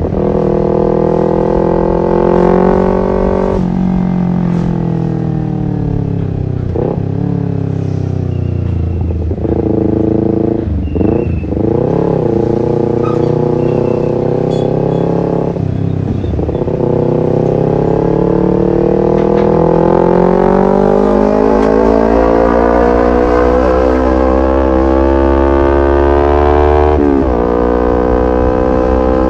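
Kawasaki Ninja 250 FI parallel-twin engine through an R9 H2 SS aftermarket racing exhaust, pulling up through the gears on the road. The pitch climbs and drops sharply at each shift, several times. Around the middle it falls and wavers as the bike slows, then rises in one long steady climb with a further shift near the end.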